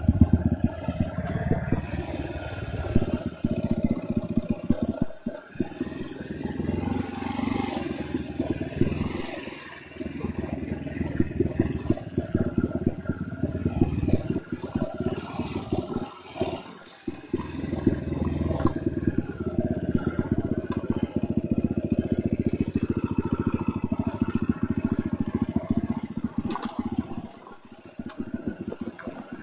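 Dirt bike engine running while riding off-road, the throttle opening and closing so the engine note rises and falls, with short lulls about five, nine, sixteen and twenty-seven seconds in. A light clatter from the bike goes along with it.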